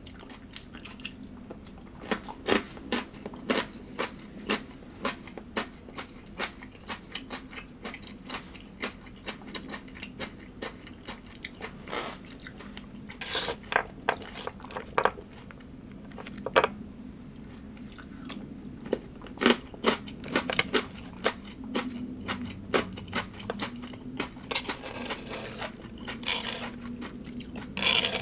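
A person biting and chewing crunchy food close to the microphone: a run of sharp, irregular crunches, with louder clusters about halfway through and near the end.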